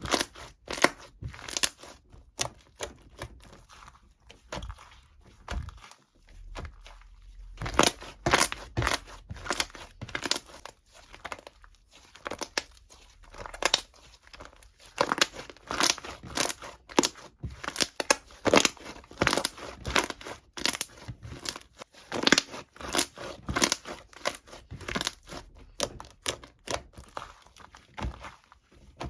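Close, irregular crinkling and tearing of a thin, crinkly sheet material, made up of many quick rustling strokes with brief pauses in between.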